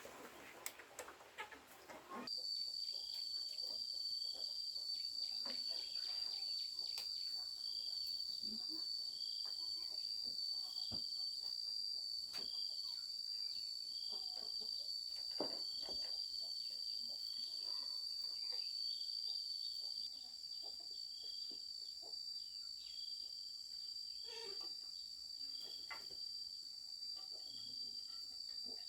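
Insects trilling steadily in a high, unbroken tone that starts suddenly about two seconds in. A shorter call repeats about once a second over it, and faint clicks and knocks are scattered throughout.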